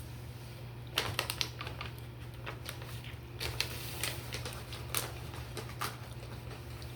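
Someone eating close to the microphone: irregular sharp crunches and clicks starting about a second in, from chewing crispy fried chicken and fries.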